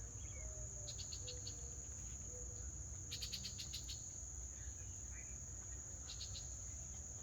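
Steady high-pitched drone of crickets or similar insects, with three short bursts of rapid high chips, like squeaking mice: the chattering of hummingbirds, about one, three and six seconds in.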